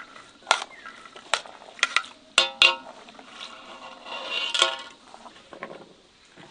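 Metal cookware and utensils clattering: about half a dozen sharp knocks and clinks in the first three seconds, two of them ringing briefly, then a scrape ending in a loud clank near the middle.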